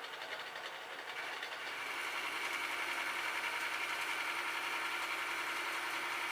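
Metal-turning lathe running while cutting a metal ring part, a steady machining noise that grows louder about two seconds in and then holds.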